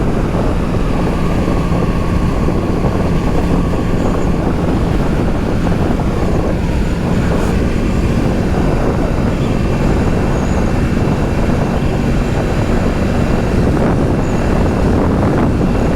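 Wind buffeting a helmet-mounted microphone while riding a Kawasaki Z650, with the bike's parallel-twin engine running steadily underneath.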